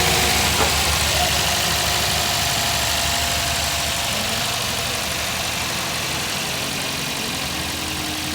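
Toyota GLi's petrol engine idling steadily, its valve tappets freshly adjusted.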